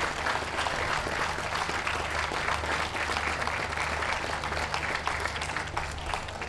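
Ringside audience applauding, a dense steady clapping that eases slightly near the end.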